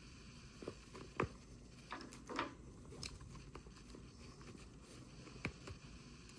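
Hands handling small plastic toys and packaging: a handful of light, scattered clicks and taps, the sharpest just over a second in, with a brief rustle about two and a half seconds in.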